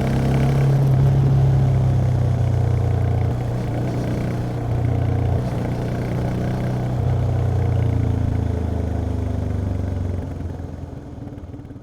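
Yamaha XT 660X single-cylinder engine with stock exhaust running on the move, its note shifting a few times as the throttle changes. The sound fades away near the end.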